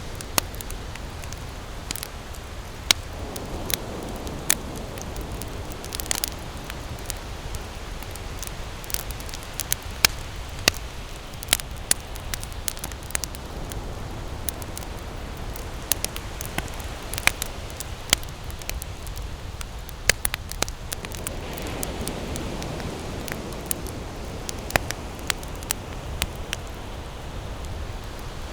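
Wood campfire crackling, with frequent irregular sharp pops and snaps over a steady hiss of burning.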